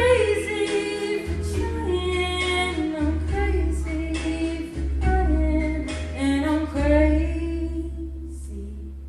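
A woman singing a flowing, gliding melody over an accompaniment of held bass notes that change every second or so.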